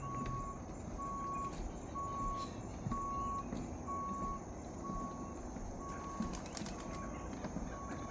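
A vehicle's reversing alarm beeping evenly, about one beep a second, over a low rumble.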